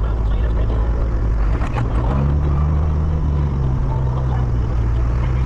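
Farm tractor engine running steadily under way. Its note shifts to a new steady pitch about two seconds in.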